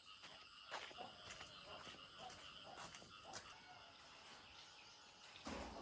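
Near silence: a faint steady chorus of insects with a few soft clicks, and a louder knock or rustle near the end.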